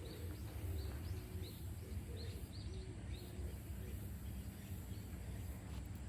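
Outdoor ambience: a steady low rumble with a bird chirping repeatedly in short high notes.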